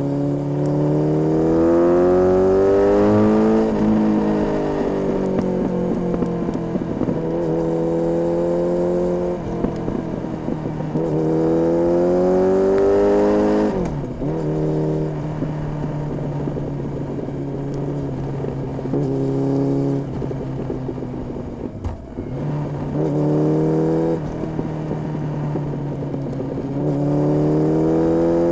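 Honda CB1300S inline-four running through an Ixrace aftermarket exhaust, accelerating in several pulls. The pitch climbs and then drops suddenly at the end of each pull, with steadier stretches at an even pitch between.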